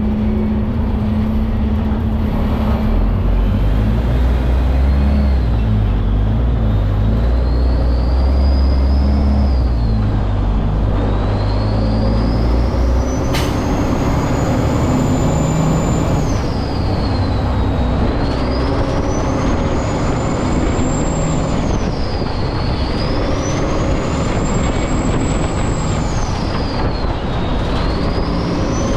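Semi truck's diesel engine pulling through its gears, with a high whine that climbs with the revs and drops at each shift, about half a dozen times. A single sharp click sounds about halfway through.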